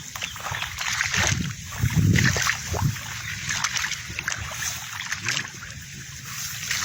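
Irregular splashing and sloshing, like someone moving through a wet rice field, with dull thumps in the first three seconds.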